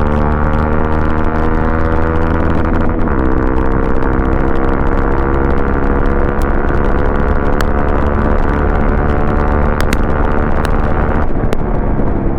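Modified Hero XPulse 200's single-cylinder engine running at steady revs, its pitch dipping briefly about three seconds in and changing again near the end.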